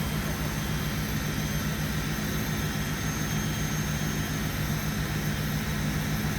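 Heavy diesel engine of a fire apparatus running steadily at the fire scene, a constant low hum over an even rushing noise.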